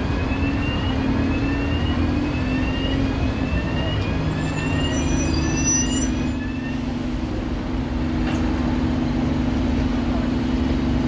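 A motor vehicle engine running steadily with a low drone. Over it comes a series of short rising chirps, about one every 0.7 seconds for the first six seconds. A brief, loud, high squeal sounds about six seconds in.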